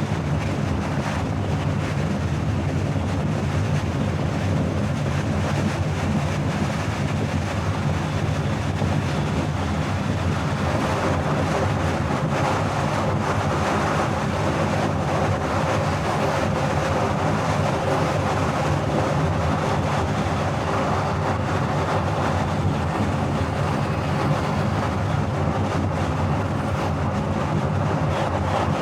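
A car driving steadily on the highway: constant tyre and road noise over a steady low engine drone.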